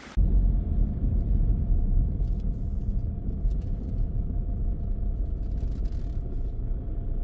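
Car driving, heard as a steady low rumble of road and engine noise that begins abruptly just after the start.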